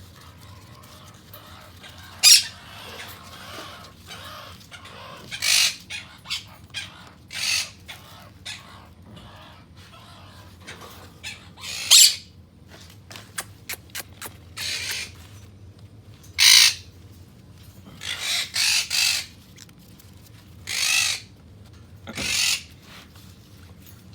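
Quaker parrots (monk parakeets) squawking: about a dozen short, harsh, screechy calls at irregular intervals, some in quick runs of two or three.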